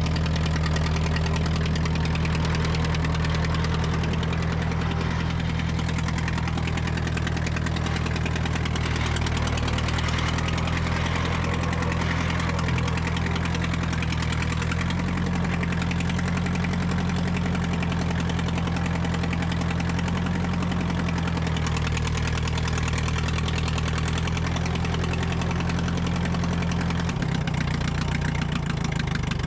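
Tractor engine running steadily at a low, even speed, its note shifting slightly about halfway through and again near the end.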